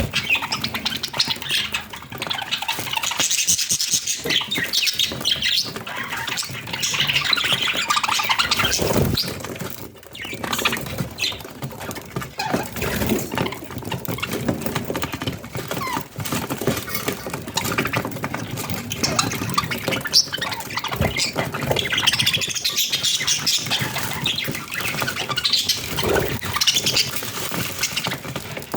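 Budgerigars chattering continuously, a dense overlapping stream of chirps and squawks.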